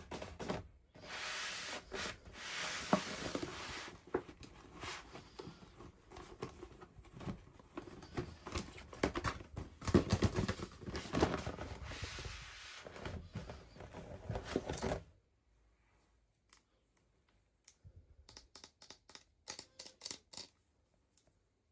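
Toy doll packaging being opened by hand: irregular rustling, tearing and scraping of the packaging for about fifteen seconds. It then stops suddenly and is followed by a few faint clicks.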